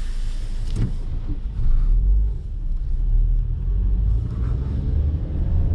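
Car being driven, heard from inside the cabin: a steady low engine and road rumble.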